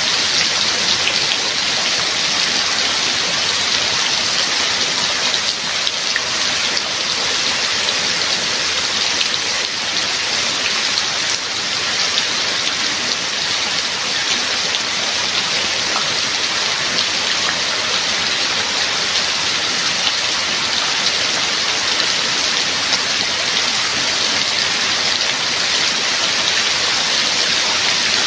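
Steady heavy rain falling, an even hiss of many drops with no break or change.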